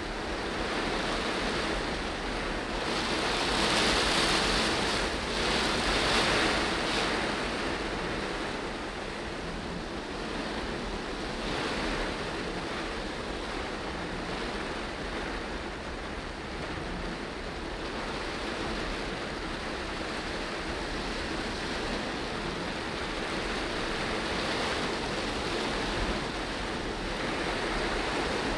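Heavy tropical downpour on a moving car, heard from inside the cabin: rain beating on the body and windscreen mixed with tyres hissing through water on the road, a steady wash of noise that swells louder for a few seconds about three seconds in.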